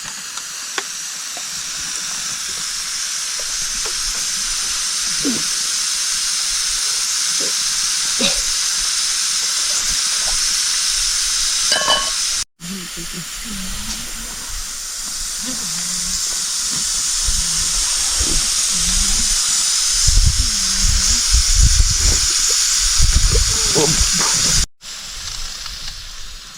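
Food sizzling as it fries in a hot pan: a steady hiss that slowly grows, with low knocks and rumbles in the last few seconds.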